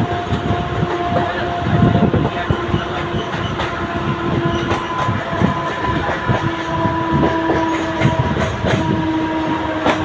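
Mumbai suburban local electric train running, its coaches rattling and clattering over the track, with a steady electric hum in a few held tones that shift pitch slightly.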